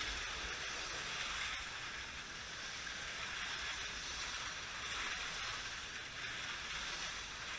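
Slot cars running laps on a racing track: their small electric motors make a steady hiss that holds level throughout.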